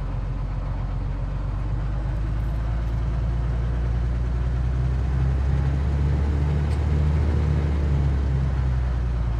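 Steady cabin drone of a Cessna 182Q's six-cylinder engine and propeller in flight, growing a little louder in the middle and easing off near the end.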